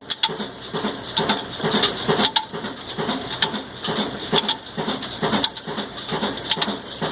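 Old Ruston Hornsby single-cylinder diesel engine running at a steady slow beat, about three to four low thuds a second, with sharp clicks scattered through it, while it drives a flour mill.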